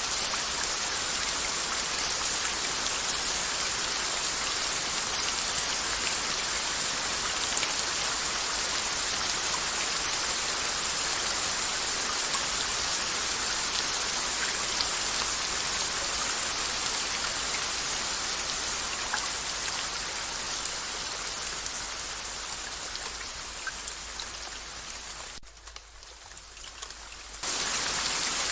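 Steady rain falling, an even hiss dotted with the ticks of single drops. Near the end the rain fades down, drops away sharply for about two seconds, then comes back abruptly at full strength.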